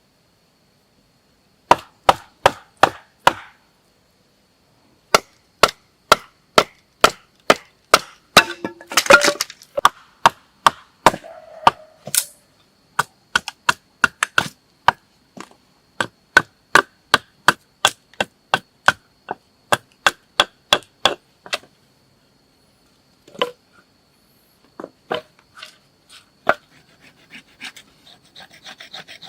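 Repeated chopping strikes into wood, about two a second with a short pause early on. About three quarters through they thin out to a few scattered blows, and a rasping scrape follows near the end.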